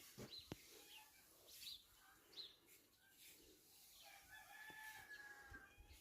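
A rooster crowing faintly once, starting about four seconds in and lasting about a second and a half. Small birds chirp at times in the background.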